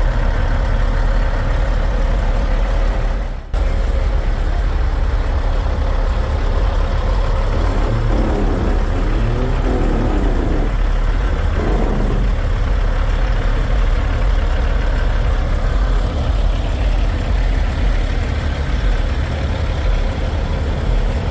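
Steady low rumble of idling semi-truck engines, with a brief wavering sound a little past the middle.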